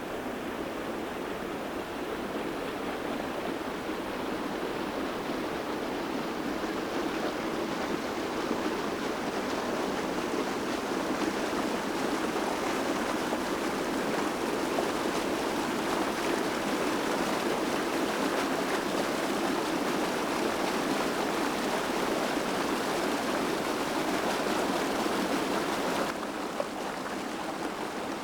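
Steady rushing flow of a mountain stream. About 26 seconds in it turns suddenly quieter and duller.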